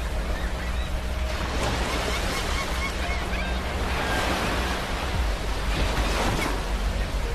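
Ocean waves washing on a beach, a steady rushing surf that swells a little around two and six seconds in.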